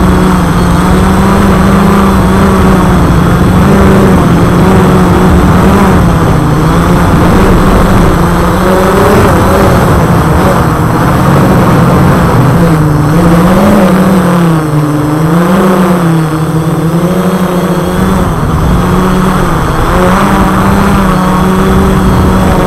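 Y6B multirotor's electric motors and propellers droning in flight. The steady buzz wobbles up and down in pitch several times around the middle as the throttle shifts.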